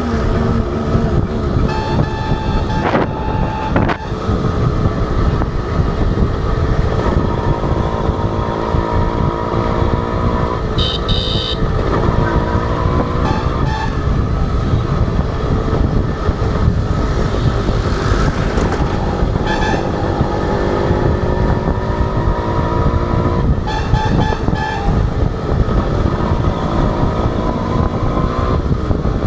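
Honda H100S two-stroke motorcycle engine under way, its pitch rising again and again as it revs up through the gears, over wind and road noise. A vehicle horn beeps briefly about 2, 11 and 24 seconds in.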